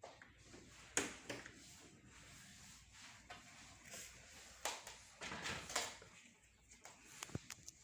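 Scattered faint knocks, clicks and scrapes of things being handled, with a cluster of them a little past the middle and one sharp tick near the end.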